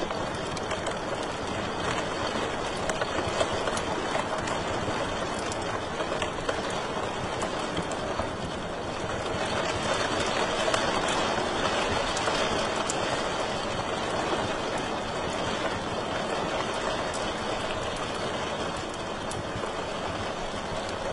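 Wood fire crackling in a fireplace: a steady rush of flames with frequent small, sharp pops and snaps.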